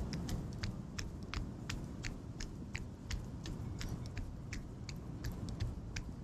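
A runner's footsteps, a sharp regular tap about three times a second, over a low steady rumble of storm wind on the microphone.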